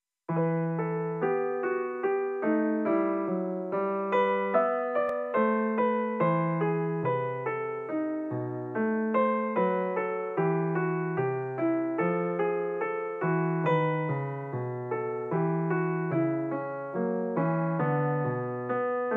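Piano music: a steady stream of ringing, decaying notes with an even pulse.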